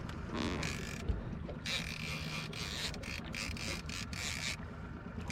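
Small outboard motor running steadily, with a fishing reel ratcheting in quick, broken bursts from about two seconds in until near the end while a big fish (a wahoo) is on the line.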